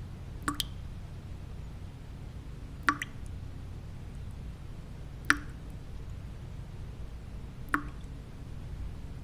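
Single water drops falling one at a time, four in all, evenly spaced about two and a half seconds apart, each a short bright plink. Underneath runs a steady, low white-noise hum.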